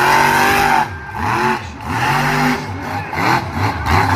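Monster truck engine revving hard, its pitch rising and falling several times in quick succession as the throttle is worked.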